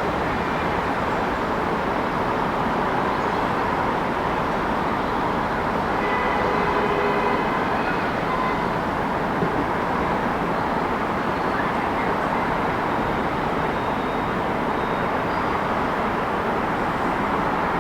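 Steady city traffic noise, an even wash of passing vehicles, with a faint brief whine about six seconds in.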